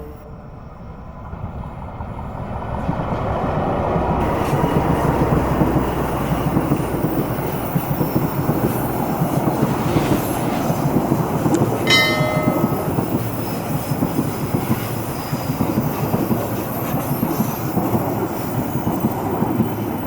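A train passing close by on the Java main line: the rumble and wheel clatter build over the first few seconds, then run on loud and steady. A brief shrill tone sounds about twelve seconds in.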